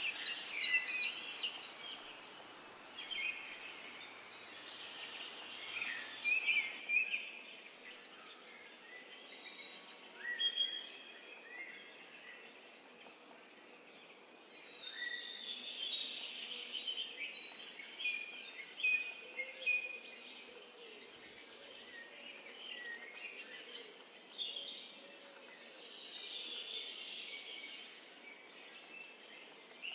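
Songbirds chirping and singing, many short high calls, over a faint steady outdoor hiss.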